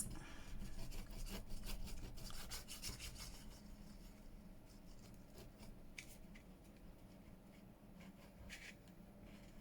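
Glue being spread over paper with soft, irregular rubbing strokes, busier at first and sparser later.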